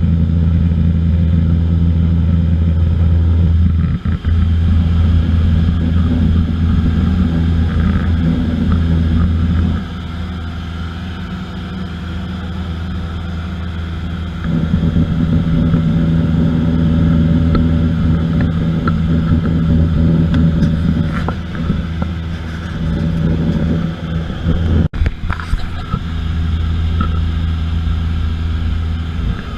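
Aircraft engine running with a steady low drone. It eases down in level about ten seconds in and comes back up a few seconds later, with a brief break in the sound near the end.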